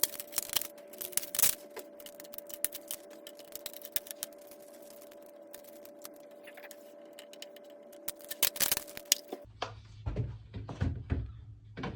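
Clicks and knocks of plastic fridge fittings, a tray and a folding shelf, being handled and snapped into place, in two clusters near the start and near the end. A faint steady tone sounds beneath them and stops shortly before the end.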